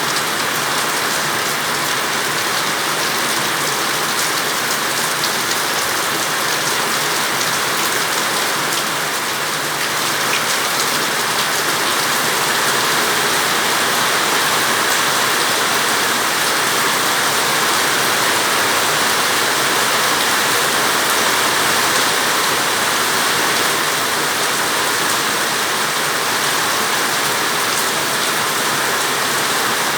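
Heavy rain pouring steadily, a dense even hiss of drops on surfaces, getting a little louder after about ten seconds.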